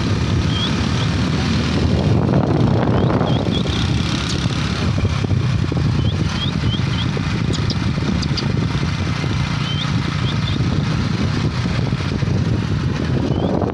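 Motorcycle engine running steadily while riding, with wind rumble on the microphone, and a bird's short high chirps repeating every second or two.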